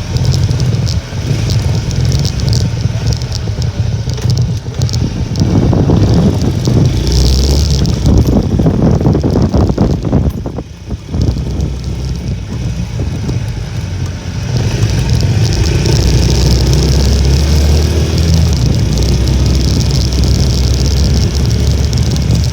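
Heavy wind buffeting the microphone on a Honda Little Cub moped ridden through strong typhoon wind, over the low running of its small single-cylinder engine. The rumble eases briefly about ten seconds in.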